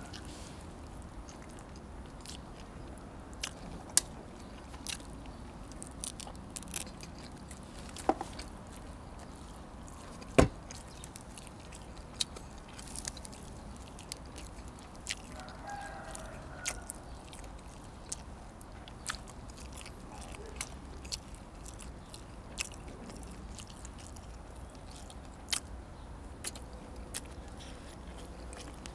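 Close-miked eating: a person chewing and biting pork ribs and fresh vegetables, with scattered crunches and sharp mouth clicks, two of them louder about four and ten seconds in.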